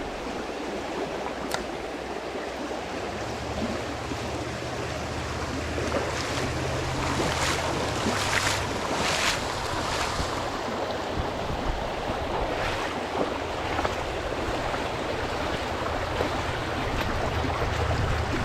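Flowing creek water, a steady rush, with a few louder splashy surges about halfway through. A low steady hum comes and goes underneath.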